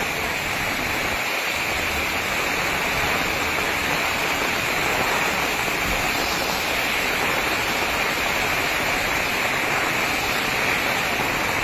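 Heavy rain pouring down, with rainwater running across a flooded street: a steady, unbroken rushing hiss.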